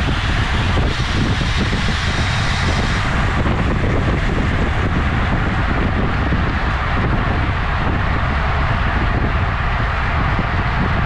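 Steady wind buffeting on the microphone of a camera riding along on a road bike, with road rumble underneath. A higher hiss rises briefly between about one and three seconds in.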